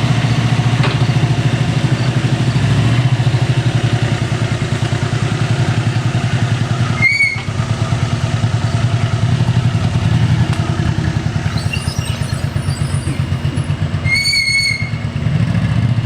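Honda CX500's V-twin engine running at a steady speed, with no revving. Two brief high-pitched tones cut in, about seven seconds apart.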